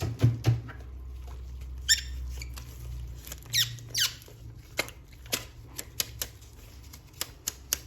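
Hands handling a plastic toy and its packaging: scattered sharp clicks and taps, and a few short squeaks that fall in pitch, around two to four seconds in.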